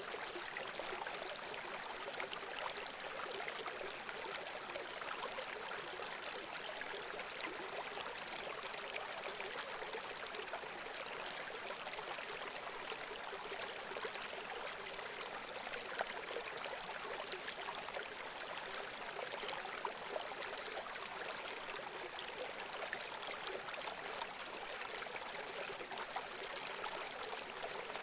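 Running water in a small stream, babbling and trickling steadily with fine splashy flecks.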